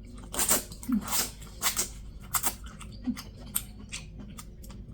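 Close-up wet chewing and lip-smacking, an irregular run of sharp clicks and smacks while eating sweet corn and seafood boil in a hot, saucy sauce.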